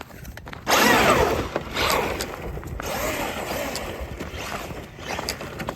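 Traxxas Maxx Slash RC truck driving off on pavement: electric motor whine with tyre noise that starts suddenly under a second in, loudest at the start, with pitch sweeping downward, then surges again and keeps running.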